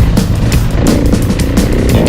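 A motorcycle engine running and revving, mixed with loud heavy-metal music with a steady drum beat.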